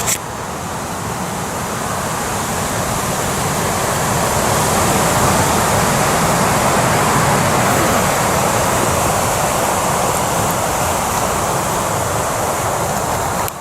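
Steady rain falling on a tarp overhead and the surrounding woodland, a continuous hiss with faint drop ticks that builds a little over the first few seconds.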